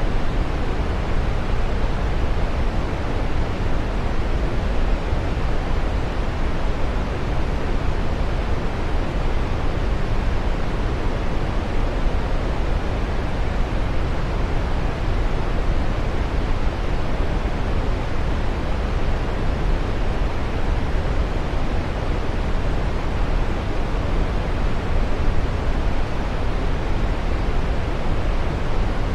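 Running water: a steady, unbroken rush with no distinct splashes or changes, heaviest in the low end.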